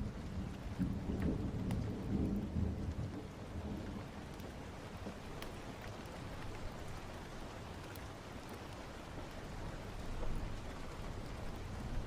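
Steady rain with a low roll of thunder, strongest in the first few seconds and then dying away.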